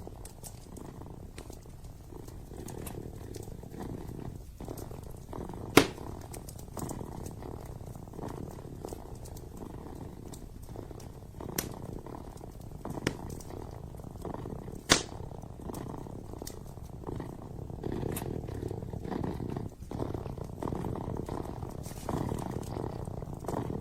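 A kitten purring steadily and close, with sharp pops from a wood fire: two loud ones, about six and fifteen seconds in, and a few fainter ones.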